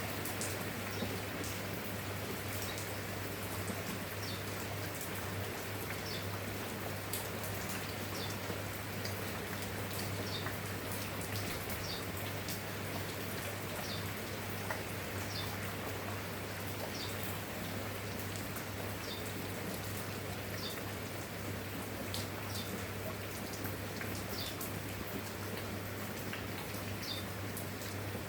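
Steady rain with individual drops pattering and clicking on surfaces. A short high chirp recurs about every second or so over the rain, with a steady low hum underneath.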